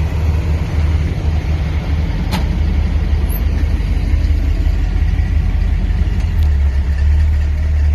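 Vehicle engine idling steadily, with a single sharp click about two and a half seconds in.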